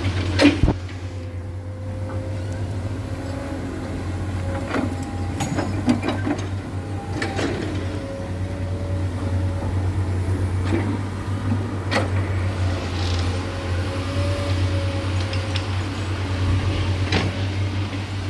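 Heavy diesel earthmoving machinery (excavators) running steadily, with scattered sharp knocks and clanks of metal and rock as the machines work.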